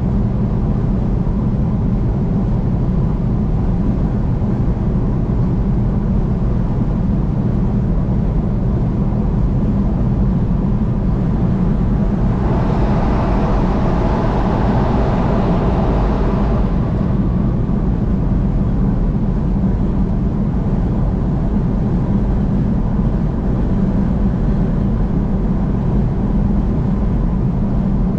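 Steady highway driving noise from a moving vehicle: a constant low rumble of engine and tyres on the road. About halfway through, a rush of tyre and wind noise swells for several seconds and then fades.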